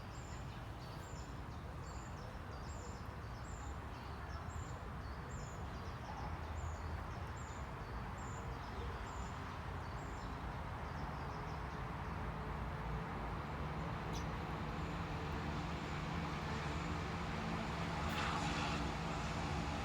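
A bird's short, high call repeated about twice a second for the first half, over outdoor background noise. From about halfway a motor vehicle's engine hum comes in and grows steadily louder towards the end.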